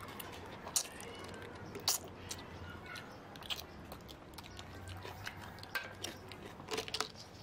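A person chewing a mouthful of spicy cockle salad, with irregular sharp clicks and clinks from a metal spoon and cockle shells against the metal tray.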